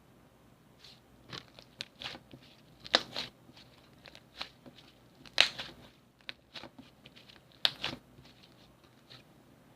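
Slime being worked by hand, giving irregular sticky clicks and small pops, with the three loudest about three, five and a half and nearly eight seconds in.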